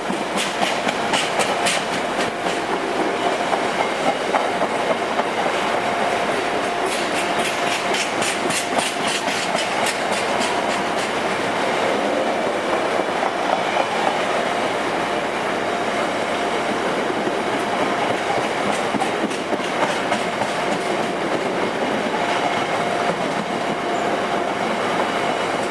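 A train running through the station, its wheels clicking rapidly over rail joints in two runs, one near the start and one about seven seconds in. A steady rumble and hum run underneath throughout.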